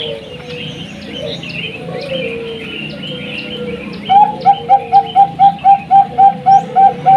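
Zebra dove (Bangkok perkutut) calling among high chirping bird calls, with low cooing notes underneath. About four seconds in, a loud, rapid, even series of short cooing notes begins, about four a second.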